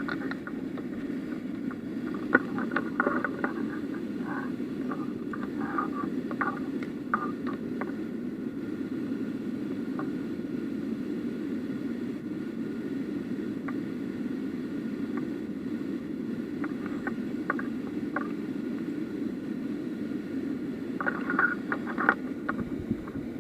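Steady rushing of water in a small mountain stream, with a few clusters of light clicks and taps.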